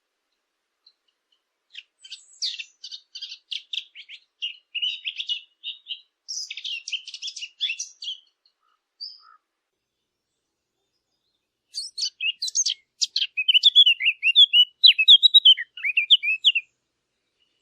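A songbird singing two long phrases of rapid, twittering high notes, with a pause of a few seconds between them.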